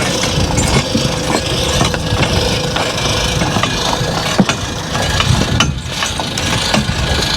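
Horse-drawn hay rig rolling over rough ground, its wooden and metal parts rattling and clanking with many small knocks.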